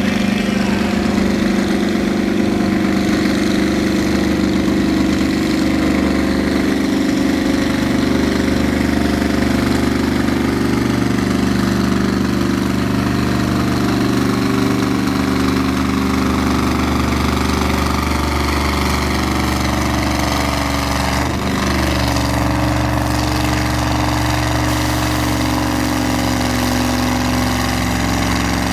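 Naturally aspirated pulling tractor's diesel engine running steadily at a constant speed, loud and even, settling slightly lower in pitch about two-thirds of the way through.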